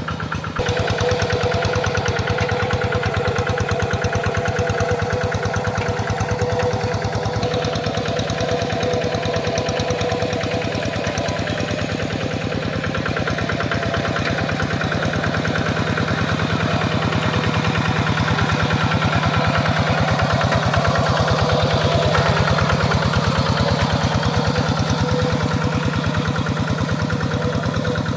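Tractor engine running steadily with a fast, even pulse, getting louder about half a second in.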